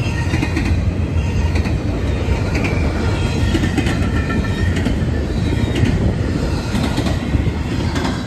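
Freight train cars rolling past close by: a steady, loud rumble of steel wheels on rail, with frequent clicks over rail joints and short, high squeals from the wheels.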